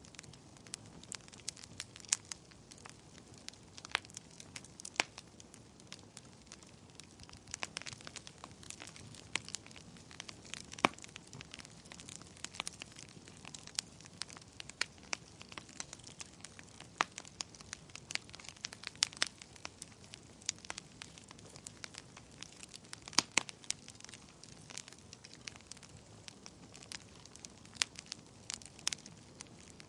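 Wood fire burning in a fireplace: a soft steady hiss of flames with frequent irregular crackles and sharp pops from the burning logs.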